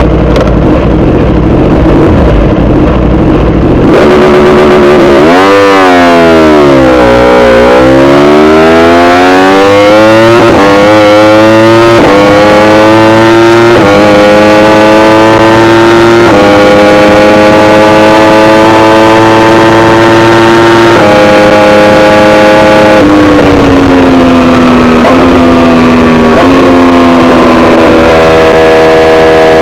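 Yamaha R1 inline-four superbike running loud through an Akrapovic exhaust. It starts with a low, rough idle, then revs sharply up and down about four seconds in. It then pulls away, the engine note climbing and holding in steps, and falls back to a lower note in short steps near the end.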